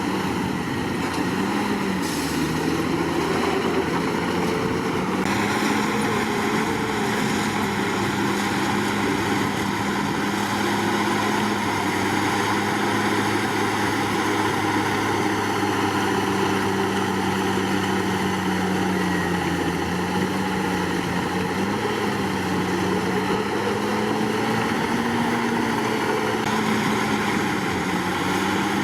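Komatsu D61PX bulldozer's diesel engine running steadily, its pitch dipping and rising slightly every few seconds as the load changes.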